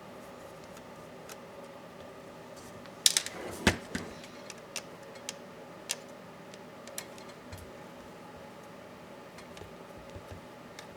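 Small clicks and taps of tools and laptop parts being handled during disassembly, with a cluster of louder knocks about three to four seconds in, over a steady low hum.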